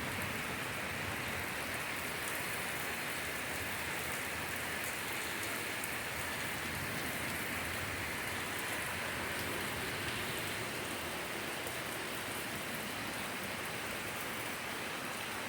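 Heavy, torrential rain pouring down steadily, an even hiss of a downpour during a thunderstorm.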